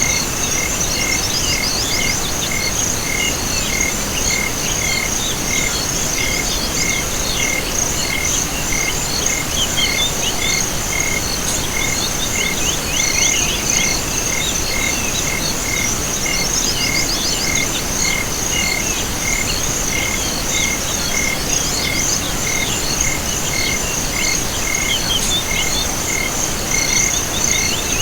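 Night chorus of insects and frogs. A steady high-pitched insect trill runs throughout, a high chirp repeats regularly a little faster than once a second, and many short scattered calls chirp in between over a constant background hiss.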